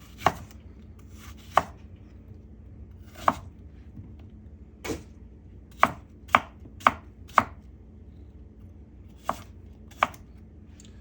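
A kitchen knife chopping fruit on a cutting board: about ten separate sharp knife strokes at an uneven pace, with a quicker run of four in the middle.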